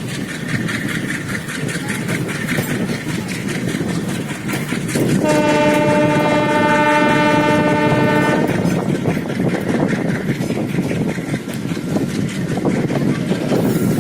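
Indian Railways passenger train pulling out of a station, its wheels clattering steadily over the rails. About five seconds in, the locomotive sounds one long horn blast of about three seconds.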